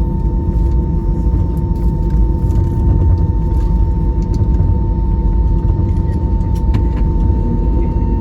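Airbus A320-200 cabin noise: a steady low rumble of engines and airflow with a steady hum, plus a few faint clicks.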